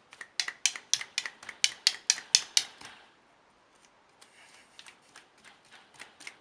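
Rapid run of sharp clicks, about four or five a second, for some three seconds; after a pause of about a second, a fainter run of similar clicks.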